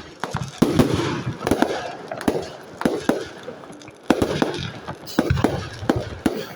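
Aerial fireworks bursting in quick succession: a run of sharp bangs, some single and some in close clusters, each followed by a rumbling echo.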